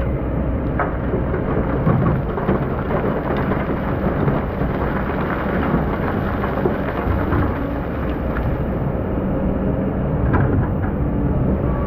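Excavator diesel engine running with a steady low hum under a rough, gritty rumble of sand and stones being worked by the bucket, with scattered clicks of stones.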